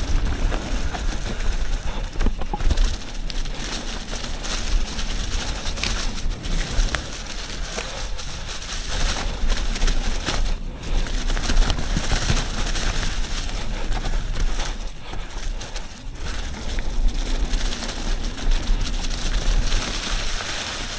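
Yeti SB 150 29er mountain bike descending a dirt trail at speed: steady wind rumble on the microphone over tyre noise, with frequent short rattles and knocks from the bike over bumps.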